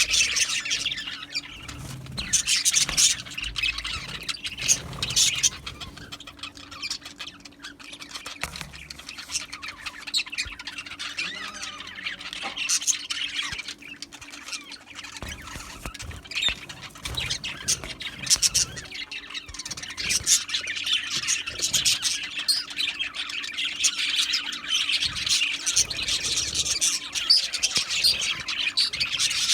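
A flock of budgerigars chattering continuously, many birds chirping and warbling at once, with sharp squawks throughout.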